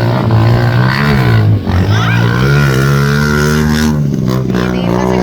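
Motorcycle tricycle engine revving hard under load, its pitch rising and falling as the throttle is worked. It drops off briefly about one and a half seconds in, then runs at a steadier, slightly falling pitch before a short break near the end.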